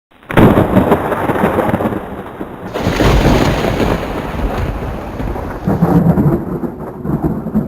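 Thunder rumbling over rain. It comes in loudly just after the start and swells again about three seconds in.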